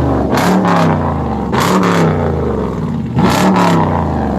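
Hemi V8 exhaust through Flowmaster 44 Series mid mufflers, blipped three times from idle, each rev rising and falling back. The exhaust draws an admiring "not bad for 44s".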